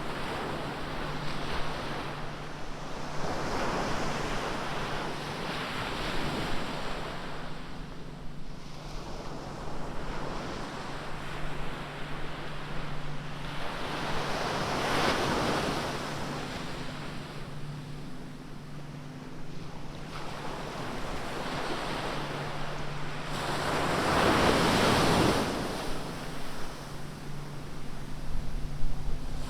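Atlantic Ocean waves breaking and washing up the beach in repeated surges that swell and fade, the loudest near the end. A faint steady low hum runs underneath.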